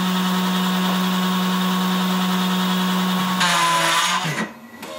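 Taig CNC mill spindle running steadily at speed with a quarter-inch end mill. About three and a half seconds in, the cutter bites into the aluminum plate with a harsh, loud cutting noise, then the spindle winds down and stops. The machinist later traces the job going wrong to a safe-retract setting in the post-processor.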